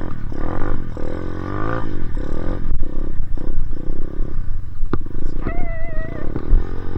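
Dirt bike engine revving up and down again and again as it rides through snow. About five seconds in there is a sharp click, then a short wavering high tone.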